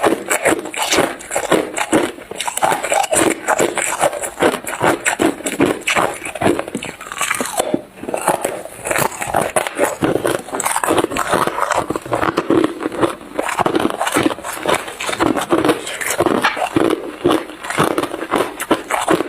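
Close-miked crunching of hard ice being bitten and chewed: a rapid, continuous run of crisp crunches with a brief lull about eight seconds in.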